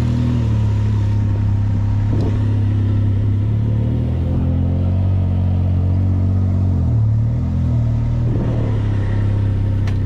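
Can-Am Ryker 900's three-cylinder engine running at low, steady revs, with a brief dip in revs about seven seconds in.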